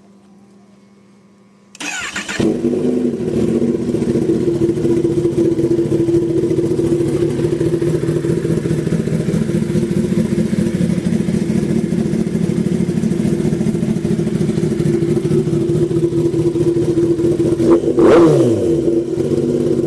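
Kawasaki ZX10R's inline-four starting about two seconds in, breathing through an aftermarket exhaust with the catalytic converter and stock exhaust removed, then idling steadily. Near the end there is one quick throttle blip, the revs rising and falling back to idle.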